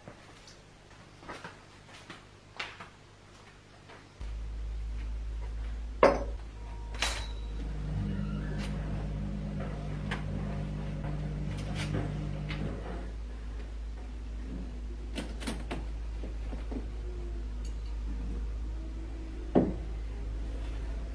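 Household sounds: scattered knocks and clicks like cupboard doors being handled, then an appliance starting with a steady low hum about four seconds in. A sharp knock comes about six seconds in and another near the end, with a pitched hum between about eight and thirteen seconds.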